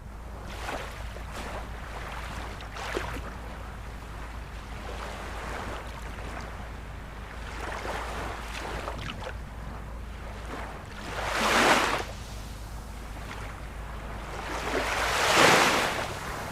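Ocean surf: a steady wash of waves, with two louder waves breaking, one a little past the middle and a bigger one near the end.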